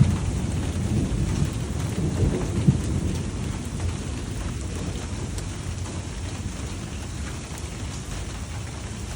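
Heavy thunderstorm rain pouring down, with a low rumble of thunder that is loudest in the first few seconds and slowly dies away.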